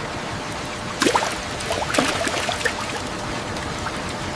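Steady rain, with a few louder drips and splashes about one and two seconds in.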